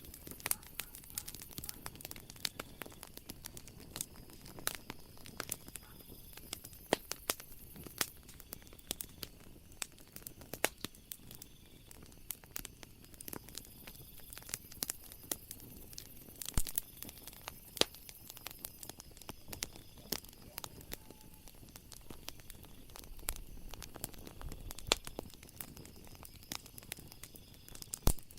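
Wood fire crackling: irregular sharp snaps and pops over a low steady hiss.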